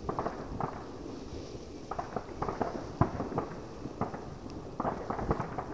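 Fireworks heard from one to two kilometres away: irregular clusters of dull pops and bangs, with the sharpest bang about three seconds in.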